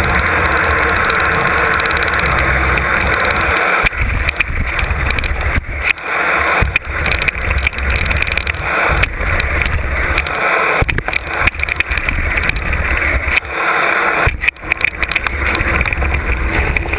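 Mountain bike descending a rough trail: wind rushing over the on-board camera's microphone, mixed with the bike's rattling. After about four seconds the noise turns choppy, broken by frequent sharp knocks and jolts.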